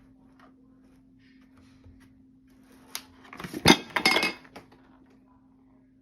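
A brief clinking clatter of hard objects knocking together, starting with a single click about three seconds in and lasting about a second and a half.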